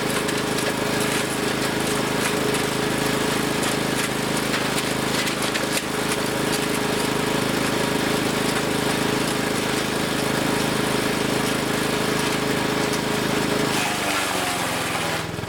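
Wood chipper's gas engine running at a steady, loud pitch with the rattle and clatter of the chipping mechanism. Near the end the engine note dips and wavers, then steadies.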